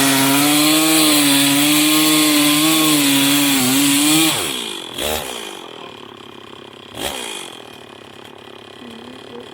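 Two-stroke chainsaw running hard while cutting into a pine log. About four seconds in, its pitch falls and the sound drops away as the chain binds and the bar gets pinched and stuck in the cut. Quieter running follows, with two sharp knocks.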